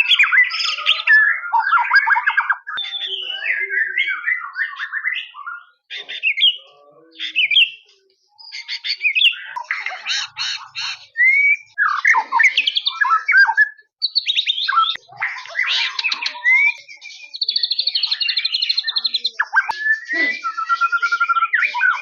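White-rumped shama (murai batu) in full song: a long, varied run of whistles, pitch glides, rapid trills and harsher notes, in phrases broken by a few short pauses.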